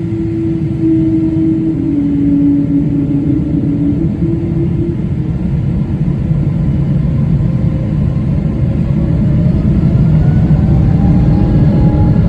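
Pratt & Whitney PW4090 turbofans of a Boeing 777-200ER, heard inside the cabin beside the wing: a steady deep rumble, then about eight seconds in the engines spool up to takeoff thrust, a ringing whine rising in pitch over the deep roar as it grows louder.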